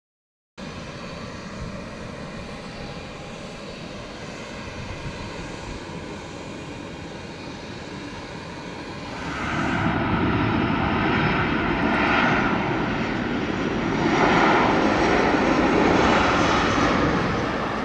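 Jet airliner engines running, a steady noise that gets clearly louder about ten seconds in.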